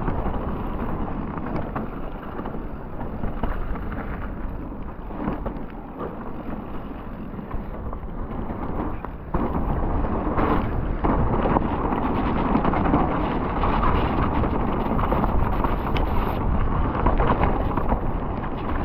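Enduro mountain bike (Radon Swoop) rolling fast down a wet dirt trail: wind rushing over the microphone with tyre and trail noise, rising in level about nine seconds in.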